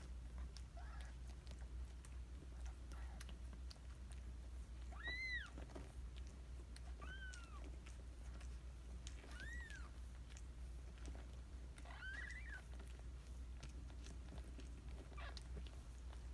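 Newborn kittens mewing: four short, high-pitched cries, each rising and then falling, spread through the stretch, with faint soft clicks in between and a steady low hum underneath.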